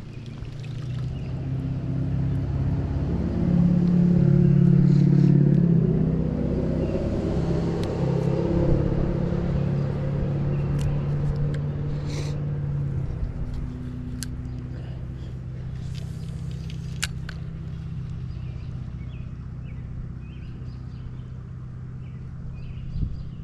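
Engine of a passing motor vehicle, a steady low hum that grows louder over the first few seconds and then slowly fades away. A few faint sharp clicks come in the middle.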